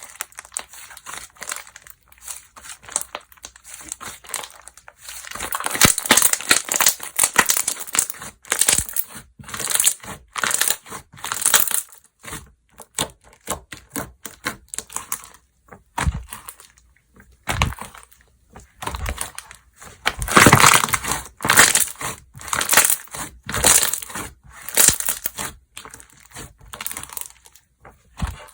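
Hands squeezing, pressing and folding slime, making crackling, clicking sounds in uneven bursts, loudest about six seconds in and again around twenty seconds in.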